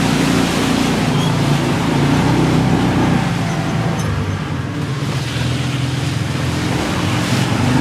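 Off-road vehicle engine running hard under load while driving through a big mud puddle, with a steady rush of splashing water and mud over it.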